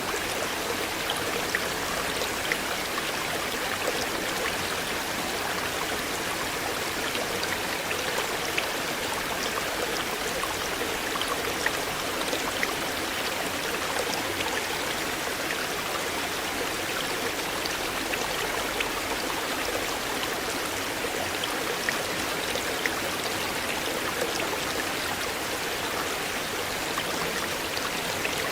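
River water flowing steadily, an even rush with frequent small splashes and droplet clicks scattered through it.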